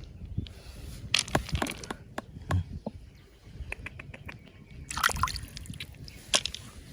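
Water sloshing and splashing, with scattered sharp clicks and knocks. The louder splashes come about a second in and again about five seconds in.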